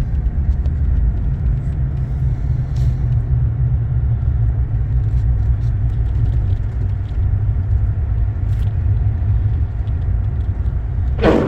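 Steady low rumble of a car driving, engine and road noise heard from inside the cabin, with a short louder noise near the end.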